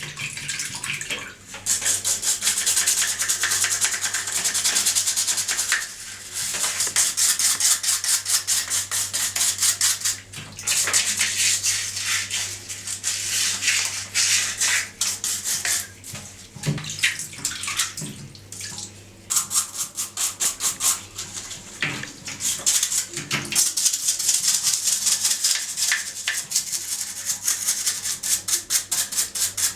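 A stiff brush scrubbing a dirty horn with rapid back-and-forth strokes, stopping briefly several times.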